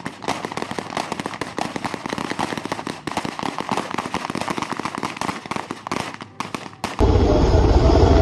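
Rapid, overlapping small-arms fire from several rifles: a dense, irregular crackle of shots. About seven seconds in it cuts to a loud, steady low rumble.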